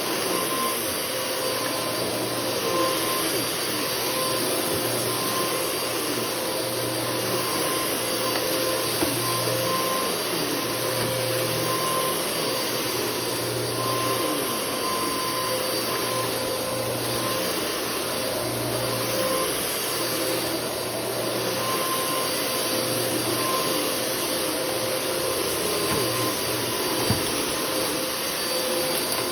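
Bissell CleanView Multi-Cyclonic 9595A 12-amp vacuum running steadily with a constant motor hum and whine while vacuuming. A couple of small clicks sound over it.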